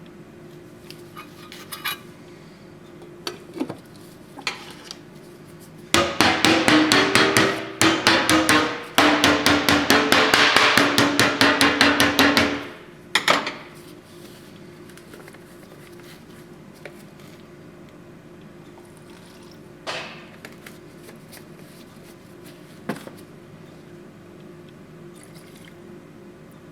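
A power tool hammering very rapidly in three bursts over about six seconds, with scattered single metal knocks and clanks before and after.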